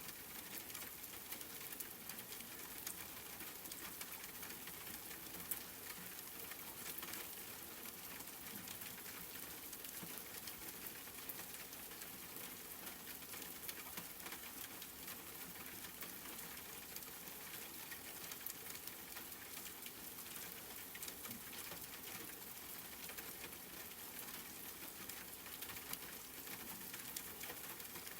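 Steady rain pattering, a fine even hiss of many small drop ticks.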